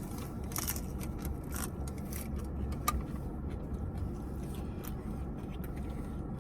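Steady low hum in a parked car's cabin, with scattered small clicks and rustles and one sharper click about three seconds in.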